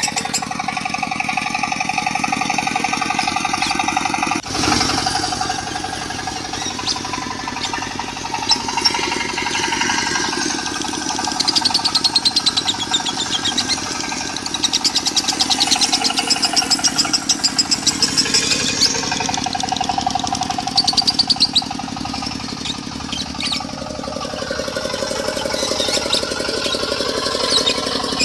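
Lovebird singing a long, rapid, buzzing 'konslet' chatter, laid over a diesel engine running with a fast, even knock. About four and a half seconds in the sound changes abruptly, as at an edit.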